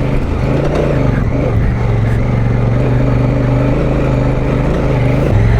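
Adventure motorcycle engine running at steady low revs while riding, its note shifting slightly near the end.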